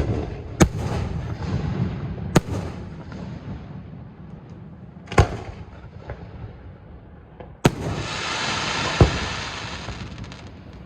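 Fireworks display: aerial shells bursting with sharp bangs, about six in ten seconds, the early ones trailing off in a rumble. Near the end one bang is followed by a crackling hiss lasting about two seconds.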